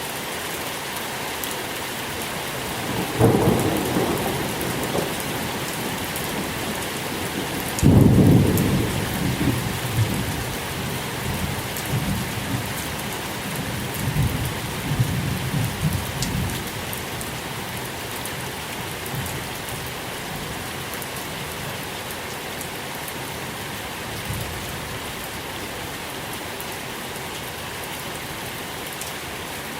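Steady rain falling, with thunder: a short rumble about three seconds in, then a louder, sharper clap about eight seconds in that rumbles on and fades by about sixteen seconds.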